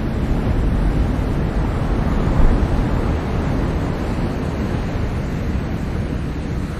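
Ocean surf: a steady wash of waves that swells about a second or two in, peaks briefly, and eases again.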